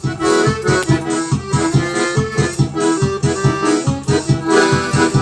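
Accordion playing the instrumental intro of a festa junina song, its melody over a steady, evenly pulsing bass beat, starting abruptly.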